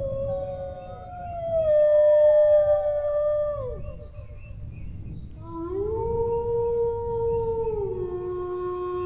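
Dogs howling: long drawn-out howls that slide down in pitch, two voices overlapping in the first few seconds. After a short pause about four seconds in, a new howl rises, holds, then steps down lower near the end, over a low rumble.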